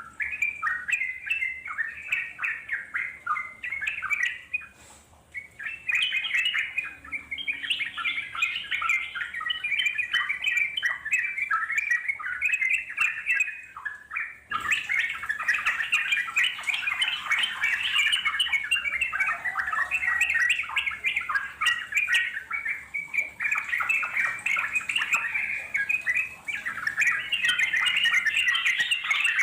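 Yellow-vented bulbul (trucukan) song: a fast, continuous run of chattering notes, with short pauses about five seconds in and again near the middle.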